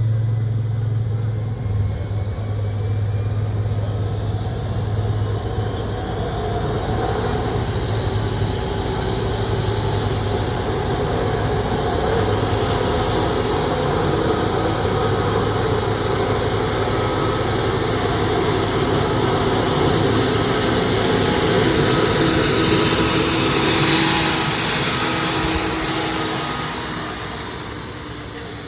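Turbine-powered (jet) pulling tractor running hard: a high whine climbs over the first several seconds and then holds steady over a heavy engine rumble. It grows louder toward the end, then fades away in the last couple of seconds.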